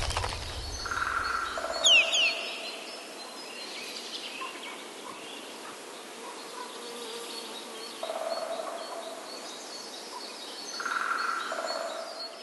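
Birds calling over a steady outdoor background: two quick falling whistles about two seconds in, and held two-note calls, a higher note followed by a lower one, near the start and again near the end.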